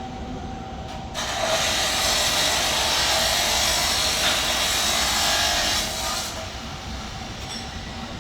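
Power tool cutting through the exhaust pipe to take the mufflers off, a steady harsh hiss that starts about a second in and stops about five seconds later.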